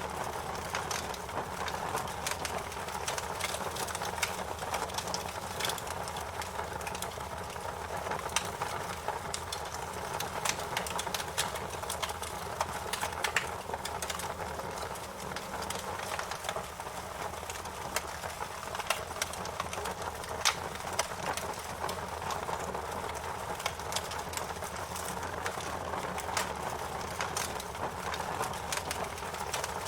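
Wood fire burning in a fireplace: a steady rush of flames with frequent sharp crackles and pops scattered irregularly throughout.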